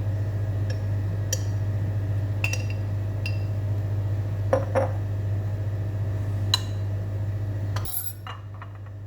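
Cutlery and dishes clinking now and then as breakfast food is handled, over a steady low hum that stops near the end.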